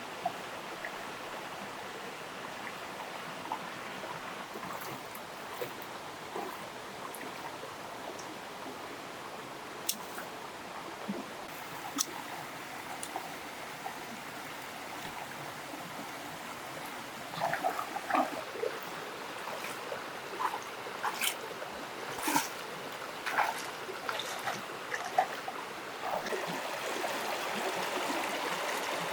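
Steady trickling, running water, with scattered small clicks and knocks that come thicker through the second half.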